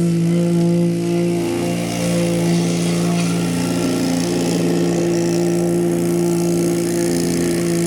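An engine running steadily at a constant speed, with a loud, even hum and no revving.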